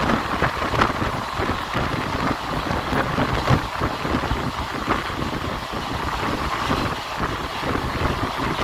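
Running noise of a moving ICF passenger coach: a steady rush of wheel-on-rail and air noise with constant small rattles from the coach.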